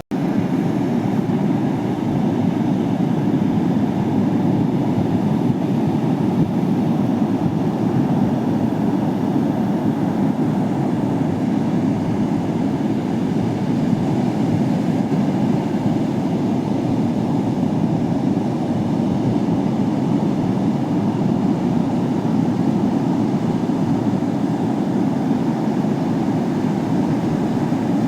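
Steady, even low roar of ocean surf, muffled with little treble and no separate wave breaks.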